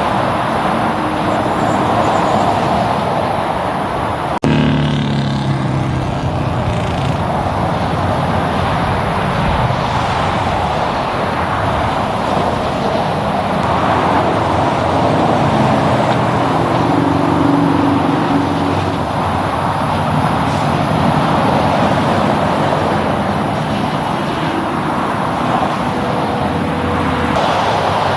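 Roadside highway traffic: a steady rush of tyres and engines from passing trucks and cars, with engine tones coming through at times. There is an abrupt cut about four seconds in.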